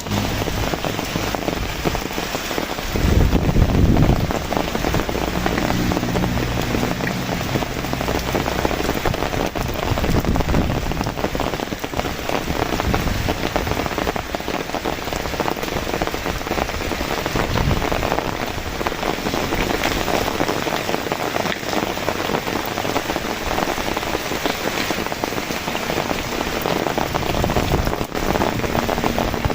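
Heavy rain falling steadily, an even hiss of drops hitting surfaces, with a louder low rumble about three seconds in.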